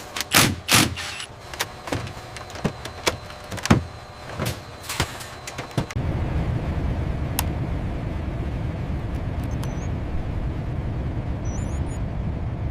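Mechanical clicks and clunks in quick irregular succession, then a steady low machine rumble from about six seconds in.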